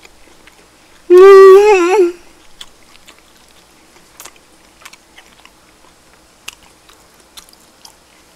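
A person chewing a mouthful of duck, with soft wet mouth clicks, broken about a second in by a loud, wavering hum that lasts about a second.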